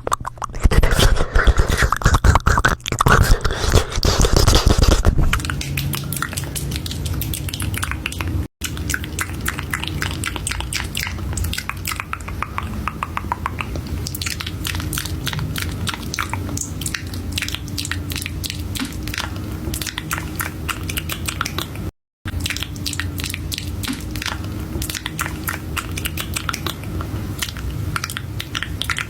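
Fast ASMR mouth sounds: a dense, rapid stream of tongue and lip clicks and smacks, louder and fuller for the first five seconds. Broken twice by a split-second gap.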